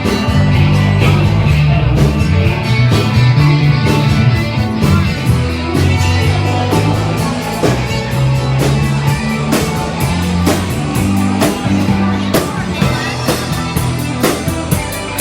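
Live rock band playing: electric guitar, bass and drums with singing.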